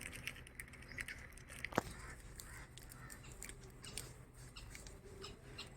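Birds chirping and calling in many short, scattered notes, with a single sharp click a little under two seconds in.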